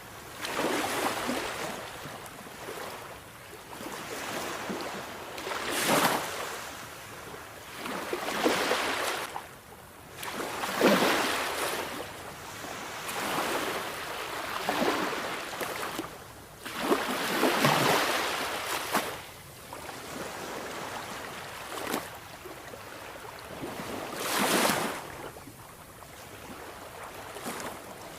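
Sea waves breaking and washing on a shore, one surge every two to four seconds, some breaking louder than others.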